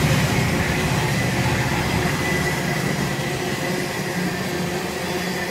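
Freight train of tank cars rolling past, a steady rumble of wheels on rail that slowly fades.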